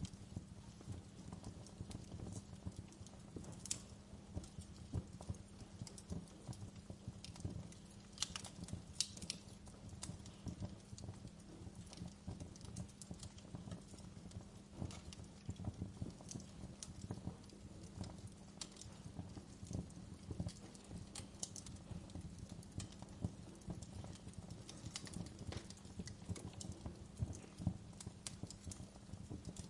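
Wood fire burning in a fireplace: a steady low rumble of flames with frequent irregular crackles and sharper pops of burning wood.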